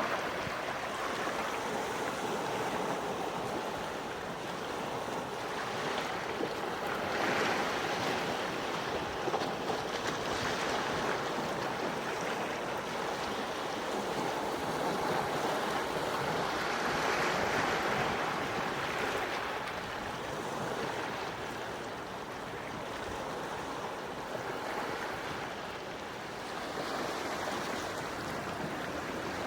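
Gentle sea waves washing onto a shore, a steady hiss of surf that swells and eases slowly, building around seven seconds in and again past the middle.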